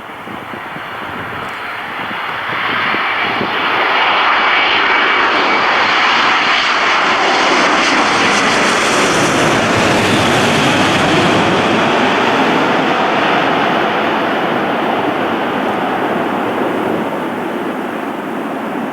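Airliner's jet engines as the aircraft passes close by: a loud, steady rush that builds over the first few seconds, holds, then eases slightly near the end.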